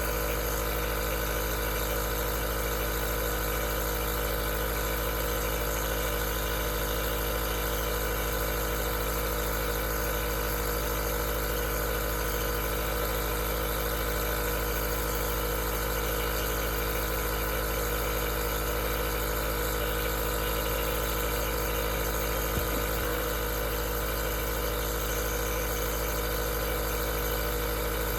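Aerosol nebulizer's compressor running steadily: a constant hum made of many steady tones over a hiss. A faint tick is heard about two-thirds of the way through.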